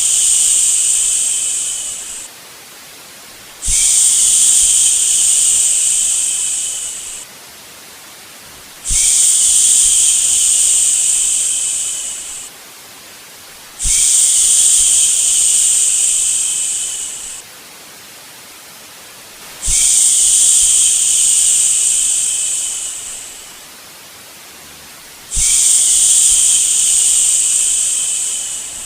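A long "shhh" shushing sound, repeated about every five and a half seconds: each shush starts abruptly, is held for about three seconds, then fades out. A faint steady hiss fills the gaps between shushes.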